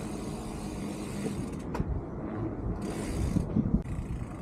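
Bike riding over rough ground: a steady rattling, crunching rumble of tyres and drivetrain, with a sharp click a little under two seconds in.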